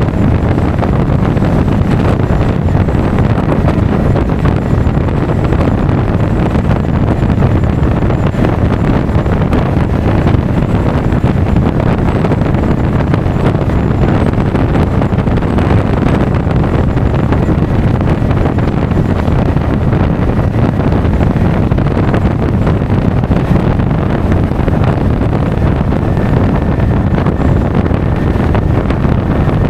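Steady, loud wind rush on the action camera's microphone while riding a Honda Forza 350 scooter at road speed, mixed with the scooter's running and road noise.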